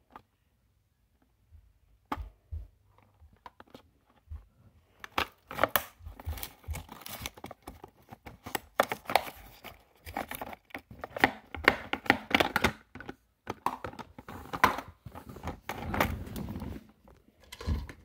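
A plastic toy garbage truck and bin being handled: a few light plastic knocks, then from about five seconds in a busy clatter of plastic clicks and rustling torn-paper scraps as the toy bin is lifted and emptied.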